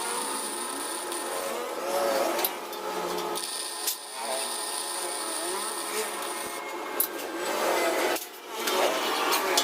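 A power tool working metal with scraping and rubbing, its pitch wavering under load, dropping out briefly about four seconds in and again about eight and a half seconds in.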